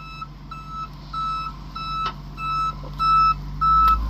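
A vehicle's reversing alarm beeping steadily, a single high tone repeating a little under twice a second, over a low engine rumble that grows louder near the end as the stuck vehicle is given gas in reverse.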